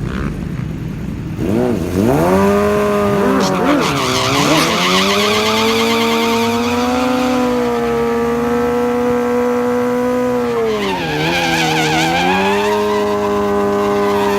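Suzuki Hayabusa's inline-four engine revved in quick blips, then held at a steady high rev for several seconds. The revs drop briefly about eleven seconds in, then hold steady again.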